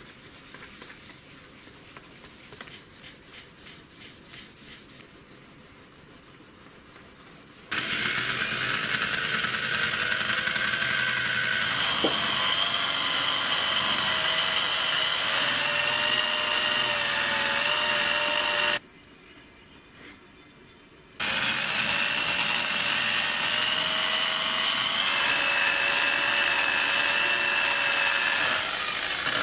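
Light rapid clicking for the first several seconds, then a power tool runs with a steady whine that drifts slightly in pitch, cutting out for a couple of seconds about two-thirds through before running on.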